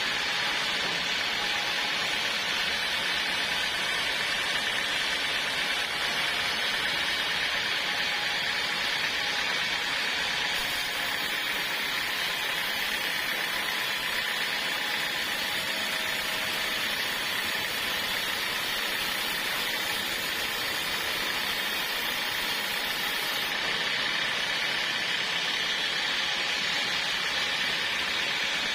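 Sawmill saw cutting through a log, giving a steady, high, hissing sound that holds even throughout.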